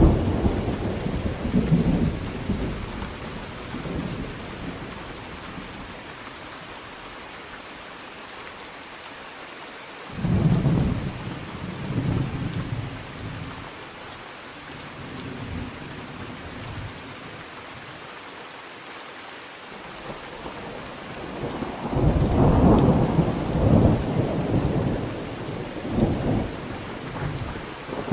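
Thunderstorm: steady rain falling, with rolls of thunder rumbling in at the start, again about ten seconds in, and in a longer, louder roll over the last few seconds.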